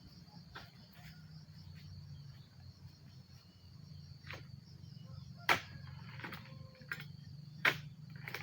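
Insects chirping steadily in a rapid pulsing trill, over a low steady hum, with a few sharp knocks; the two loudest come about five and a half and seven and a half seconds in.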